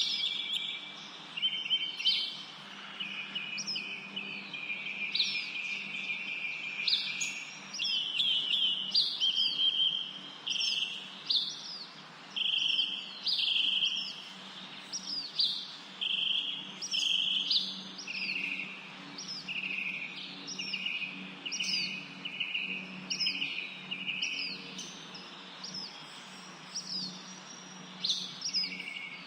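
Small songbirds chirping and singing without pause: rapid overlapping chirps, short trills and quick falling whistled notes, several voices at once. A faint steady low hum runs underneath.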